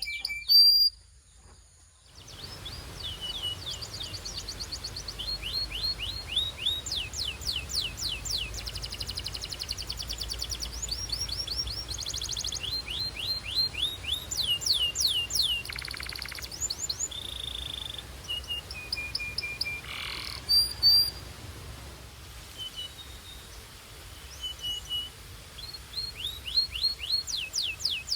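Belgian canary singing: fast trills of repeated downward-sweeping notes, broken by short steady whistled notes. The song pauses briefly near the start, then runs on.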